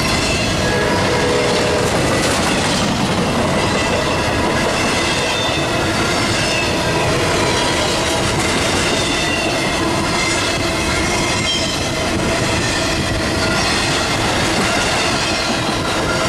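Double-stack intermodal container train's well cars rolling past close by: a steady, loud rumble and rattle of steel wheels on rail, with faint high steady tones over it.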